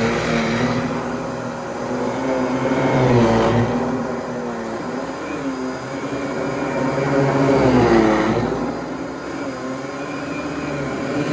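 Fantom Lightning canister vacuum cleaner running, its motor hum steady but dipping in pitch as the sound swells twice, about three and eight seconds in.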